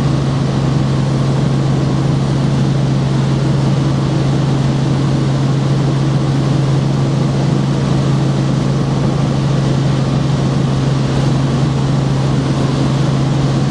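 Helicopter in flight heard from inside the cabin: a loud, steady drone of engine and rotors, with a constant low hum over a rushing noise.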